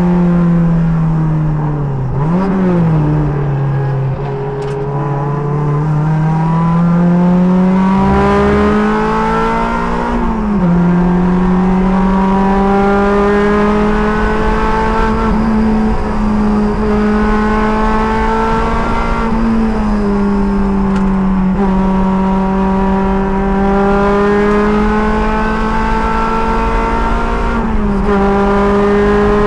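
Race car engine at full effort around a track, heard from the cockpit, its pitch climbing and falling with the throttle. There is a quick blip up and back down a couple of seconds in, and sharp drops in pitch about ten, twenty and twenty-eight seconds in.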